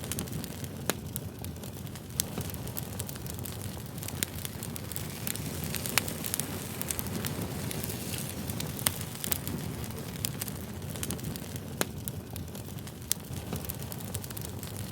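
Campfire burning: a steady low rumble of flames with irregular sharp crackles and pops of burning wood, one louder pop about six seconds in.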